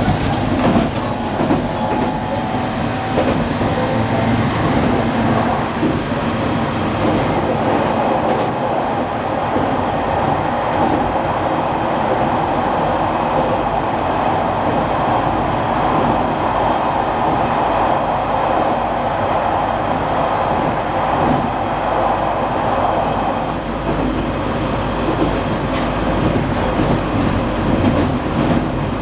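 Running noise inside a JR Kyushu 815 series electric train at speed: a steady rumble with scattered clacks of the wheels over rail joints.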